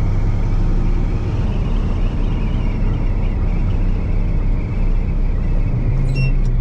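1974 Ford F-100's 390 big-block V8 and drivetrain running steadily on the move, the truck pulled by the front axle in four-wheel drive because the rear drive is broken. A few short clicks and a brief rise in the engine sound come near the end.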